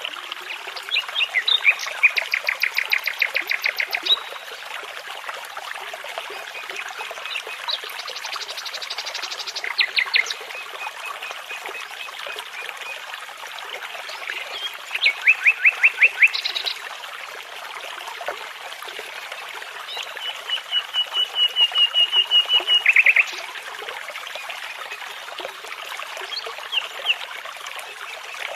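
A songbird singing in short phrases of rapid repeated notes, four phrases a few seconds apart, the last one building louder, over the steady rush of a babbling brook.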